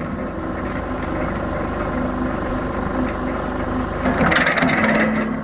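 Wood chipper's engine running steadily, with a short louder burst of rattling noise about four seconds in.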